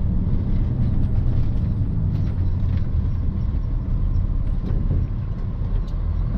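Box truck driving, heard from inside the cab: a steady low engine and road rumble.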